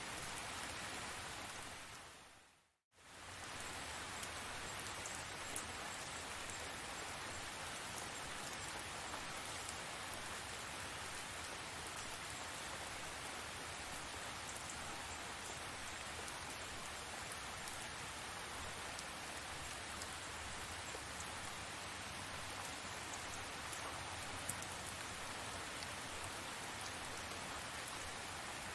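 Steady tropical rain falling, with scattered drop ticks. About two to three seconds in it fades out to silence and comes straight back.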